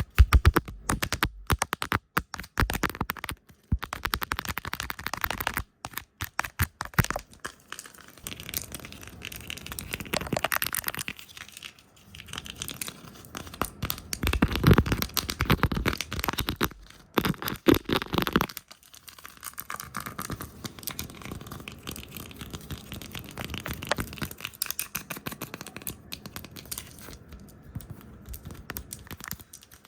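Fast, chaotic ASMR trigger sounds right at the microphone: rapid irregular tapping, brushing and scratchy hand rubbing. The sound comes in bursts broken by abrupt short silences.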